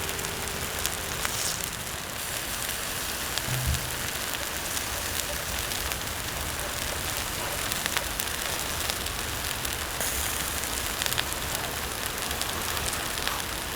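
Wood campfire crackling, with many scattered sharp pops and snaps over a steady hiss.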